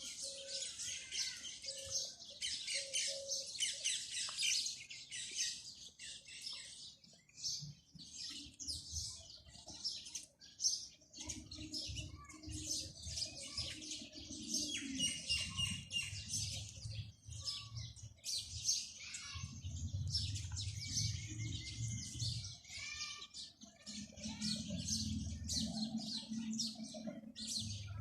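A chorus of small birds chirping and twittering without pause, many rapid high calls overlapping. A low hum joins underneath about a third of the way in.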